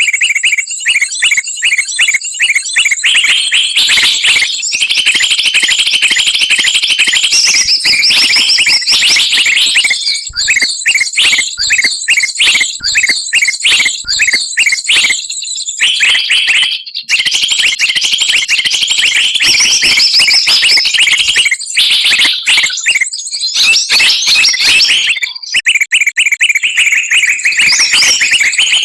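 Bird-lure recording: a dense, loud chorus of many small songbirds chirping and trilling at once, rapid high-pitched notes packed together with barely a pause.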